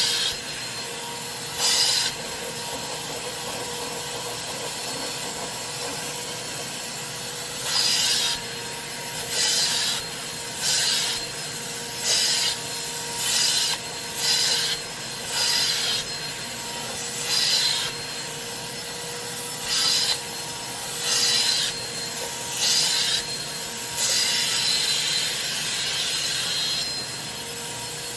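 Carpet cleaning machine running steadily, with repeated hissing strokes as its cleaning tool is worked over fabric: two near the start, then after a pause of several seconds one about every second and a half, the last one drawn out longer.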